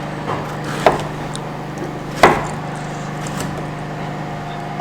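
A knife knocking on a cutting board while a pear is cut into cubes: a few separate knocks, the loudest about two seconds in, over a steady low hum.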